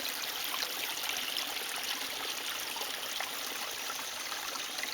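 Spring water running out of a small outlet: a steady splashing trickle with many small drips and splashes.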